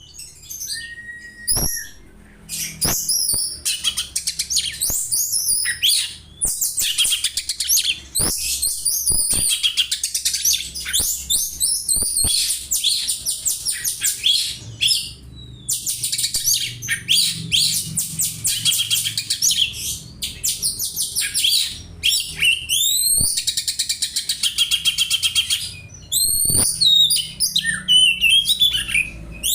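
Oriental magpie-robin singing a long run of fast, high chirping phrases that mimic the calls of the Eurasian tree sparrow, with a few short pauses. About a second in comes a single steady whistled note.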